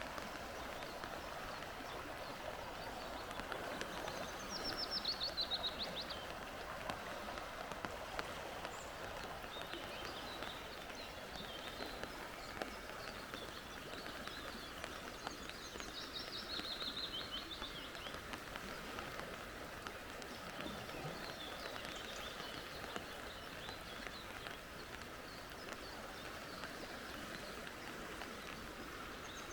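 Wild birds singing over a steady rush of flowing creek water. A rapid trilled song that falls in pitch comes about five seconds in and again around sixteen seconds, with scattered high chirps between.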